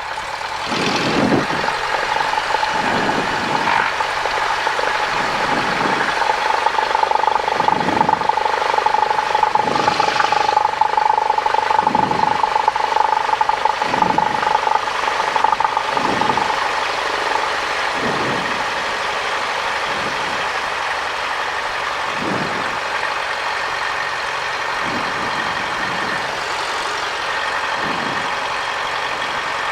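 Cessna 172 piston engine and propeller running at low taxi power, a steady drone with low thumps roughly every two seconds. A steady whine sits over it for about the first half.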